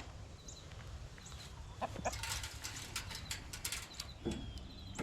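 Chickens flapping their wings in a flurry of rustling lasting under two seconds, starting about two seconds in, with a few short high chirps.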